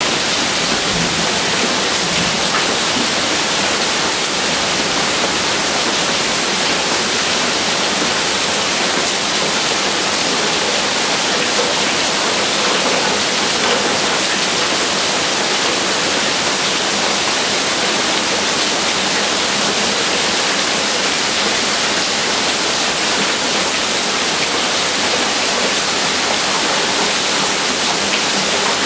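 Heavy rain falling in a steady downpour, an even dense hiss with no thunder heard.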